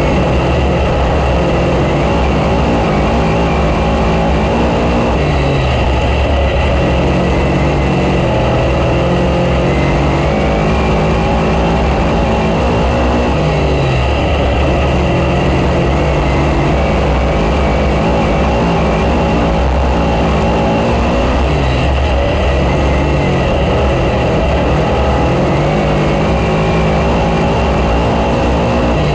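Race car engine running hard at racing speed, its pitch dropping and climbing back about every eight seconds as the car lifts for the turns and gets back on the throttle down the straights.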